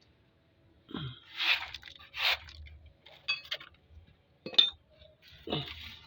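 Metal tools and engine parts clinking and scraping during engine teardown: a handful of separate scrapes and clinks, a couple of them with a short metallic ring.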